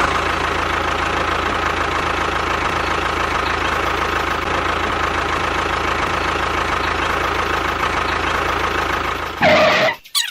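An engine running steadily at idle. Near the end there is a short, loud squeal-like sound, then everything cuts off suddenly.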